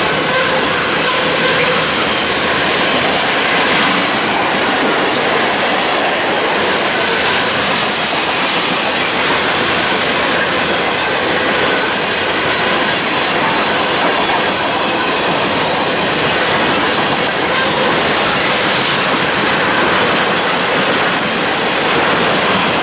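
A train rolling past on the rails: a steady, loud sound of wheels and cars running over track, with faint wheel squeal.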